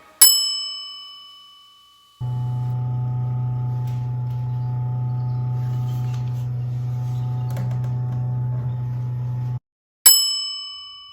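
A bell-like ding rings out and dies away over about two seconds. A steady low hum then starts abruptly, runs for about seven seconds and cuts off, and a second identical ding rings near the end.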